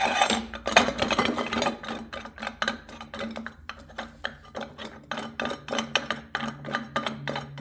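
Metal parts and tools clinking and clicking in quick, irregular strokes, as the garden tractor's air filter and its housing are handled and refitted.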